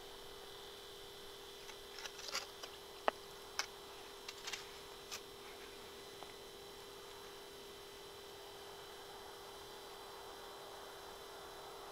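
A steady electrical hum with a fainter high whine above it, and a scatter of small clicks and taps between about two and five seconds in.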